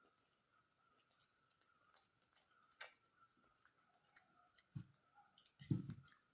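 Faint eating sounds: scattered small mouth clicks and soft chewing, with one louder, deeper knock near the end.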